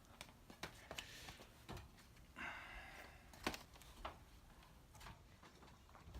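Faint, scattered clicks and knocks with a brief rustle about two and a half seconds in and a sharper click about a second later: someone climbing a ladder and handling a furnace filter.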